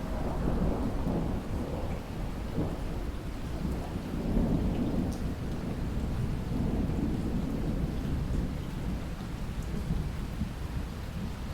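Steady rain with a long roll of thunder that rumbles in at the start, swells again a few times and fades toward the end.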